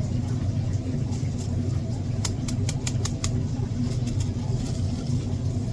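A steady engine hum, with a quick run of about eight light clicks a little over two seconds in.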